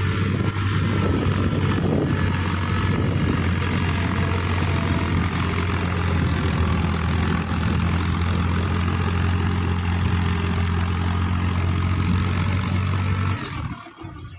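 Case JX55T tractor's diesel engine running steadily with a deep, even hum, which drops away about a second before the end.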